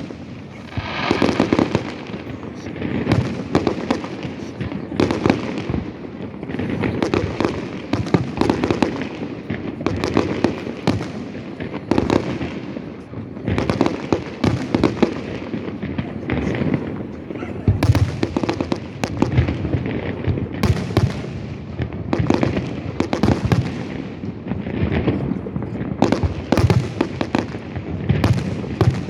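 Fireworks display: aerial shells bursting one after another in quick succession, booms and crackles with no real pause.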